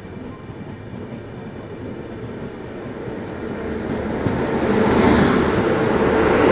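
Rumble and rail noise of a moving train, growing steadily louder and peaking about five seconds in.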